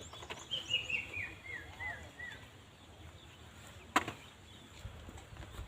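A bird calling a run of about eight short notes that step down in pitch, then a single sharp knock about four seconds in.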